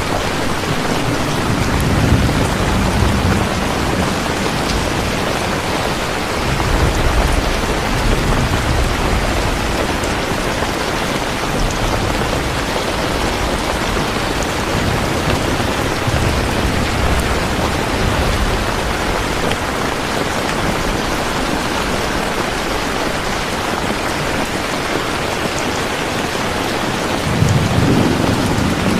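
Steady heavy rain with low rolls of thunder rumbling in several times, the strongest near the end.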